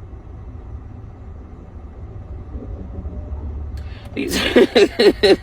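Low steady rumble, then a woman's voice talking loudly from about four seconds in.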